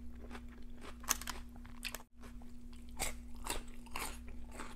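Crisp crunching and chewing of raw celery picked up close by a clip-on microphone, about two crunchy bites or chews a second. The sound cuts out briefly about two seconds in.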